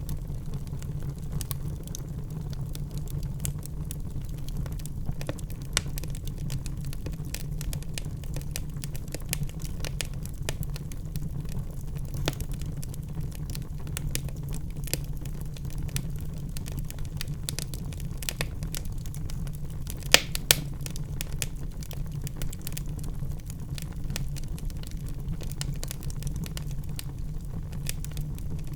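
Wood fire burning in a fireplace: logs crackling with frequent small snaps over a steady low rumble of the flames, and two louder pops in quick succession about two-thirds of the way through.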